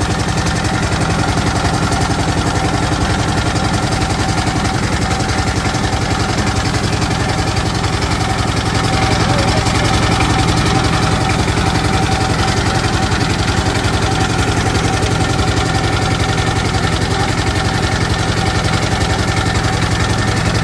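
Diesel engine running steadily, a constant even beat of firing pulses.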